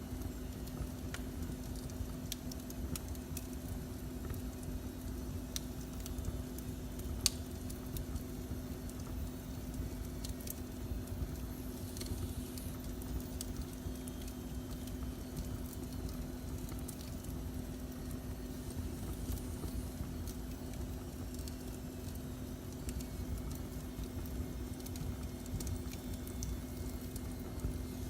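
Fire burning in a fireplace: scattered crackles and pops over a steady low rumble and hum, with one sharper pop about seven seconds in.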